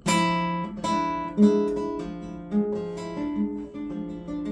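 Acoustic guitar played by hand: a strummed chord, then a run of single picked notes, each ringing and fading.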